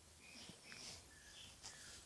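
Faint, high, short chirps of small animals, several a second, with a few soft clicks.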